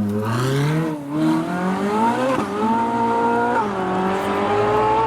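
Car engine accelerating hard through the gears, its pitch climbing and then dropping sharply at each upshift: about two and a half seconds in, about three and a half seconds in, and again near the end.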